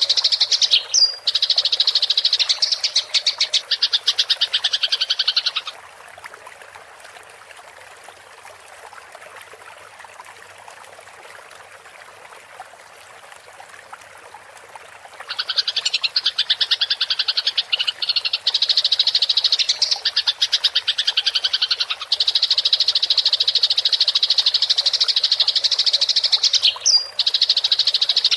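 Eurasian tree sparrow chattering in long, fast rattling trills, the agitated continuous song of a bird in fighting mood. The trilling stops about 6 s in, leaving a quieter stretch of faint steady hiss. It resumes about 15 s in and runs on with only brief breaks.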